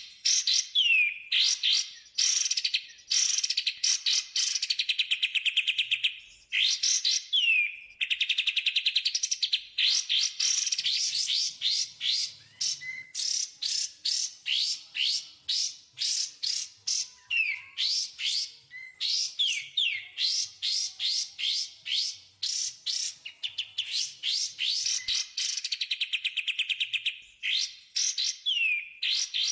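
Songbird tutor recording of kapas tembak and cucak jenggot calls, used to teach captive birds. Long, rapid chattering trills alternate with quick runs of sharp, rising notes, in phrases a second or two long with short gaps between them.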